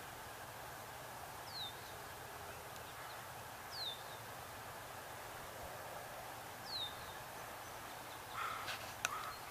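Steady outdoor marsh ambience with a wild bird giving a short, high, downward-sliding call three times, a couple of seconds apart. A few faint clicks come near the end.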